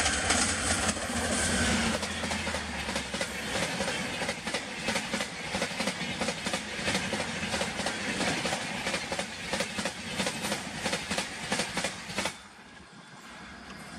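Express passenger train passing close by at high speed, about 130 km/h: a low electric-locomotive hum at first, then a fast, even run of wheel clicks as the coaches go by. The sound drops off suddenly near the end.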